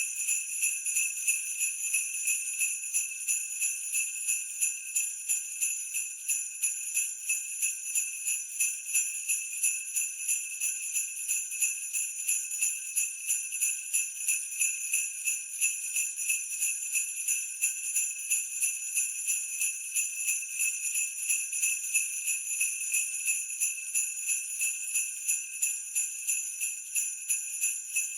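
Jingle bells (sleigh bells) shaken in a steady rhythm, about two to three shakes a second, ringing continuously.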